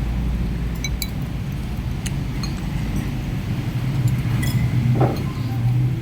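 A spoon clinking against a bowl several times in scattered, short ringing ticks while eating bakso, over a steady low rumble.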